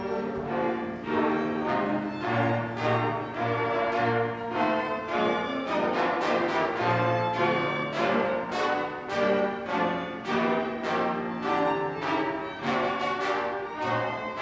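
A small church orchestra with violins and cello plays a piece, a steady pulse of notes over a bass line.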